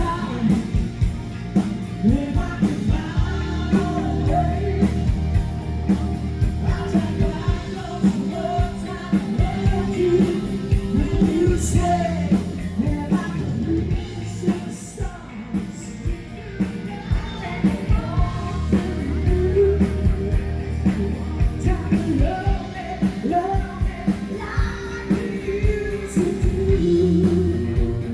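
A rock band playing live with singing over a steady drum beat.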